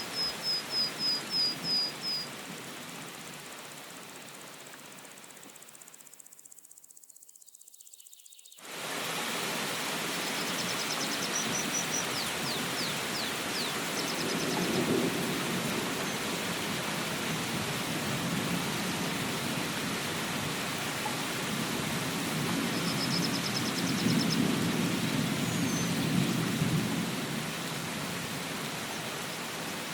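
Steady rain hiss that fades away about six seconds in and cuts back in sharply near nine seconds. Low rolls of distant thunder come about fifteen and twenty-five seconds in. Short runs of quick, high chirps sound at the start, around twelve seconds and around twenty-three seconds.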